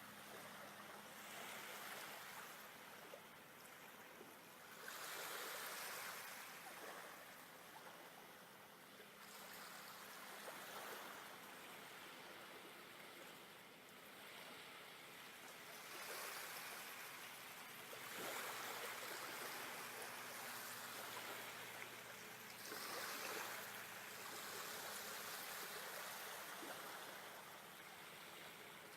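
Faint rushing water that swells and ebbs every few seconds, like surf washing against a shore.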